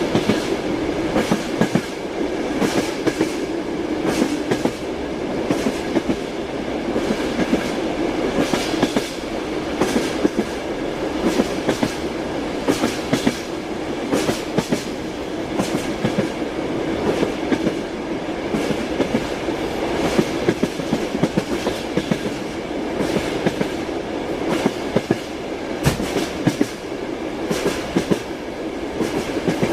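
Train wheels clattering over the rail joints while the train runs steadily: a continuous rumble with frequent, irregularly spaced knocks.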